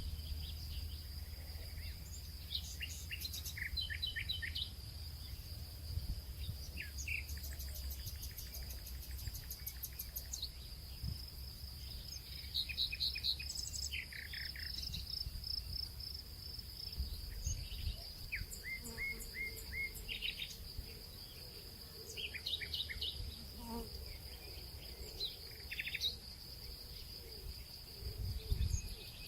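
Nature ambience: birds chirping in short, repeated calls over a steady, high insect drone, with a low rumble underneath.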